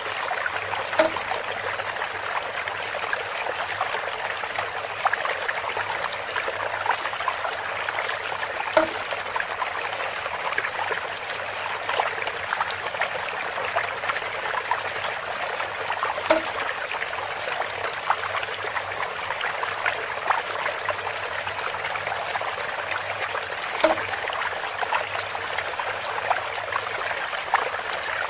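Water running and trickling steadily from a bamboo spout, with a short pitched plop about every seven and a half seconds.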